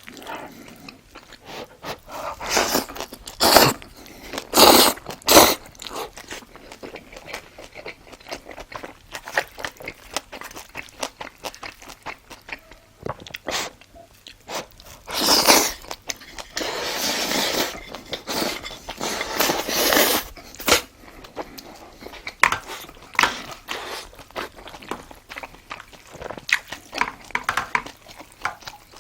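Close-up eating sounds of a person chewing and crunching food, with many short bites. There is a louder cluster of crunches a few seconds in and a longer noisy stretch about halfway through.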